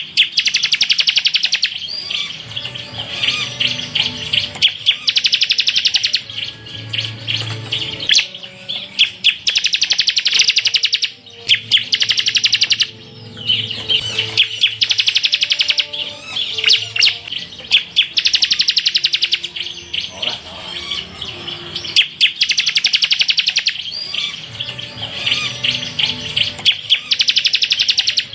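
Ciblek (bar-winged prinia) singing in rapid-fire trilled bursts, the 'tembakan' phrases prized in training recordings. Each high burst lasts about a second and comes again and again with short pauses between.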